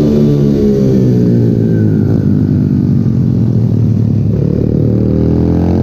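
Pit bike's single-cylinder engine running loud. Its pitch falls as the throttle eases over the first couple of seconds, it runs low and rough for a few seconds, then revs up again near the end.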